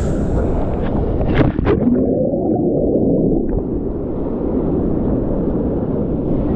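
Rushing water of a waterfall pool, heard as a muffled low rumble with gurgling, and a couple of sharp splashes about a second and a half in.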